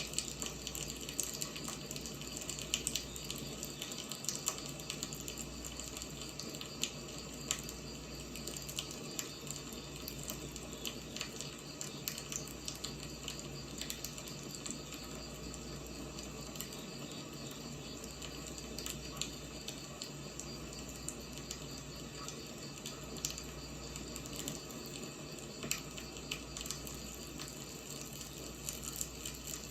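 Wood fire burning: a steady hiss with frequent small crackles and pops from the firewood.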